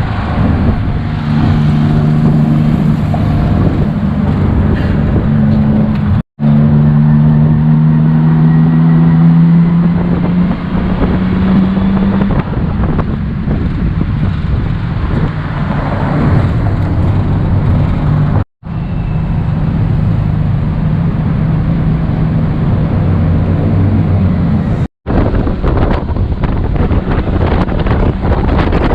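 Tuk-tuk engine running under way, its pitch climbing as it picks up speed about ten seconds in. The sound cuts out abruptly three times.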